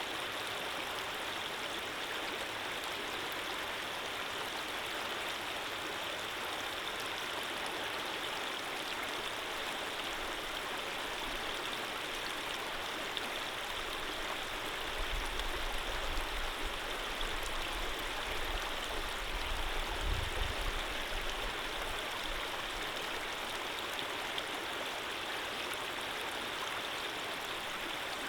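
Running water of a stream flowing steadily, an even rushing noise. About halfway through a low rumble rises under it, peaks, and fades out a few seconds later.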